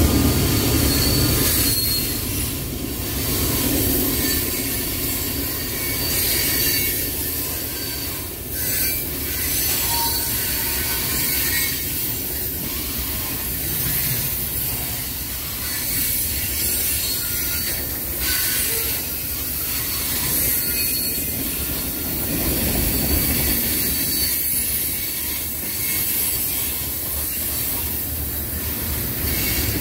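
Freight cars of a long train rolling past on a curve: a steady rumble of wheels on rail with hiss and high wheel squeal. In the first second or two the low engine sound of a mid-train GE CM44AH diesel locomotive fades as it moves away.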